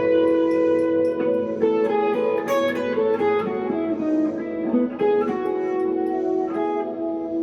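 Electric guitar, a 1963 Fender Telecaster through a tube amp, playing single notes and double stops that ring on with delay and reverb.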